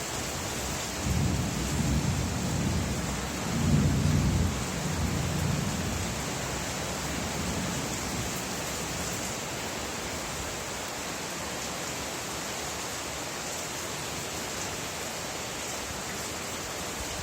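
Steady rain falling, with a low roll of thunder rumbling from about a second in to about six seconds, loudest around four seconds in.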